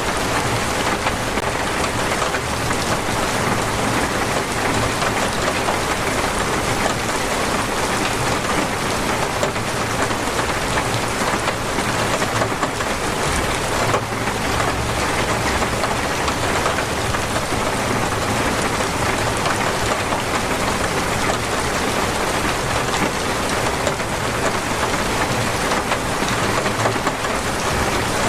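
Heavy, torrential rain falling steadily, a dense even hiss of drops on surfaces.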